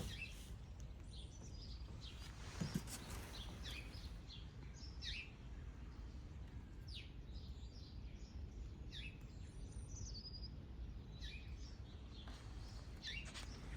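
Small birds chirping: many short, quick, falling chirps scattered throughout, over a low steady rumble. One brief soft knock a few seconds in.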